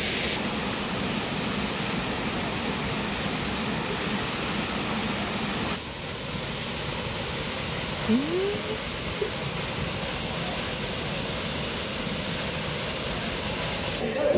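Steady rushing noise, changing abruptly about six seconds in, with a short rising call about eight seconds in.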